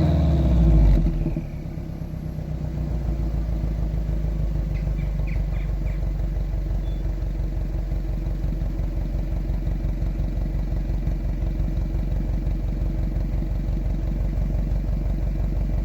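Subaru EJ205 turbocharged flat-four breathing through an HKS Wangan cat-back muffler: revs fall back from a blip to idle in the first second or so, then it idles steadily with a bassy boxer rumble.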